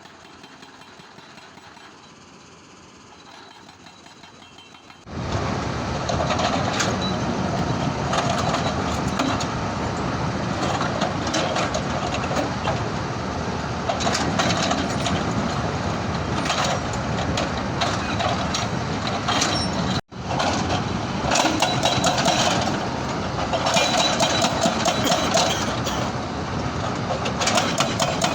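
Heavy stone-crushing machinery running, with rocks knocking and clattering irregularly. It starts suddenly about five seconds in after a quieter stretch of low machine noise, and cuts out for a moment about twenty seconds in.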